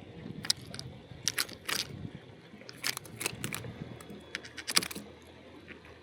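Irregular sharp clicks and light metallic rattles from fishing tackle being handled, in a few quick clusters.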